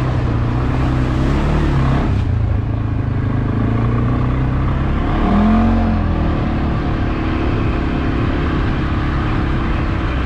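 CFmoto CForce 520 ATV's single-cylinder engine running steadily under way, with a brief rise and fall in revs about halfway through.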